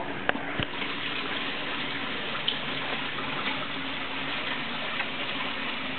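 Steady rain falling, an even hiss with a couple of small clicks near the start.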